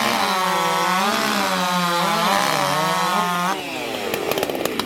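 Racing chainsaw at full throttle cutting through a log in a timed race cut, its pitch wavering and sagging under load. About three and a half seconds in, the cut finishes and the engine drops off, followed by scattered sharp clicks.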